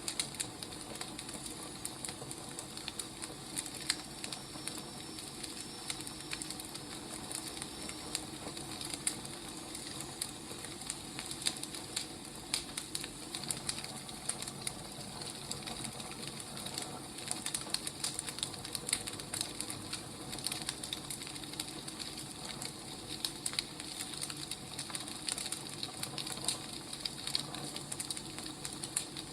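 Wood fire crackling: a steady hiss with many irregular, sharp pops and snaps.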